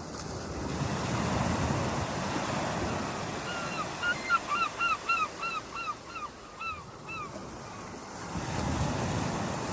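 Waves washing in, swelling and easing, with a bird calling a quick run of about a dozen short, hooked notes in the middle.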